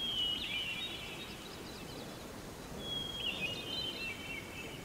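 Small songbirds singing in short high chirping, trilling phrases, one at the start and another about three seconds in, over a faint outdoor background hiss.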